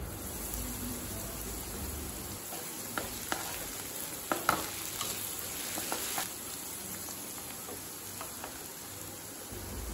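Diced potatoes sizzling in oil in a kadai while a wooden spatula stirs them, scraping and tapping against the pan. The sharper spatula knocks come between about three and six seconds in.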